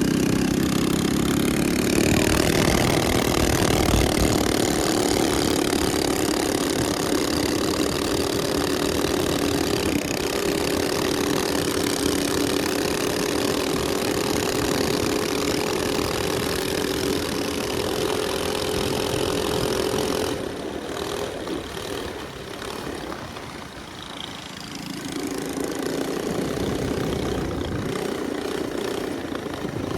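Minibike engine running at a steady speed while riding. About two-thirds of the way through the engine eases off and goes quieter for a few seconds, then picks back up.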